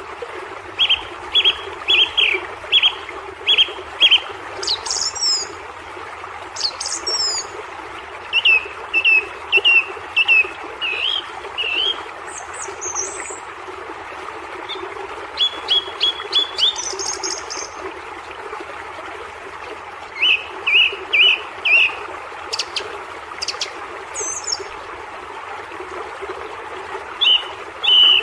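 Songbirds singing bouts of quick, repeated short notes every few seconds, with a few higher calls between, over the steady rush of a waterfall.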